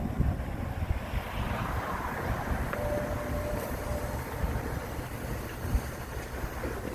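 Machinery running with a steady low rumble, with a few light knocks and a brief faint whine about three seconds in.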